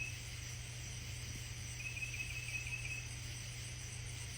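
A steady chorus of night insects, with a low hum underneath; about two seconds in comes one short, quick stuttering trill.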